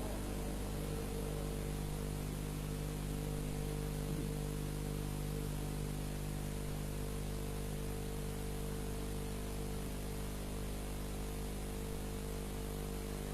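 Steady electrical hum with a constant hiss from the recording chain, unchanging throughout, while the recitation is paused.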